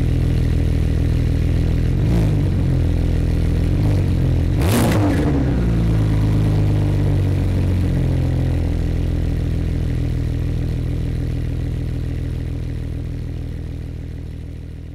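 Porsche 911 GT2 RS Clubsport's twin-turbo 3.8-litre flat-six idling, blipped briefly about two and four seconds in and revved more sharply about five seconds in, then settling back to idle as the sound fades away toward the end.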